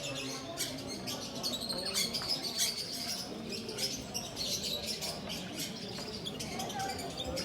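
Many small caged birds chirping at once, a dense mix of short high calls from several birds.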